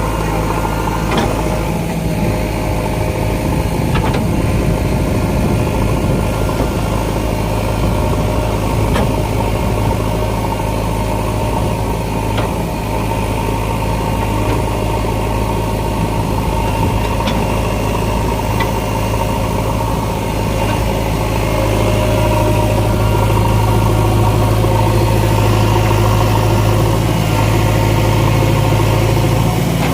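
JCB 3DX backhoe loader's diesel engine idling steadily, with a few faint clicks, growing a little louder about two-thirds of the way through.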